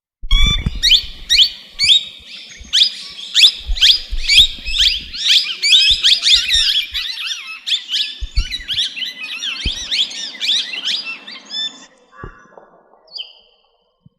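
Parrot calling: a quick run of sharp, high, downward-sweeping squawks, about two a second, that run together into dense chattering and stop about twelve seconds in. Scattered low thuds sound underneath.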